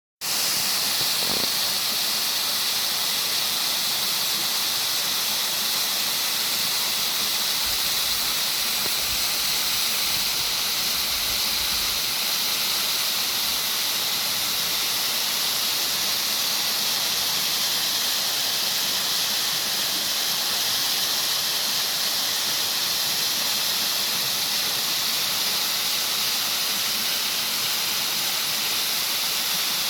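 A steady, even hiss, strongest in the high range, holding one level without change.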